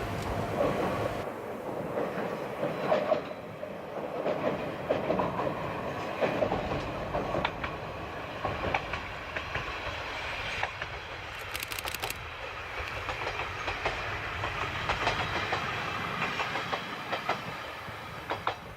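Diesel railcar running along the line, its wheels clicking over the rail joints again and again.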